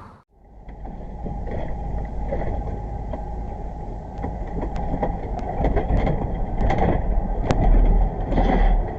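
Driving noise from a car dashcam: steady low engine and tyre rumble, with scattered light clicks and knocks from about halfway in. It begins after a brief cut-out.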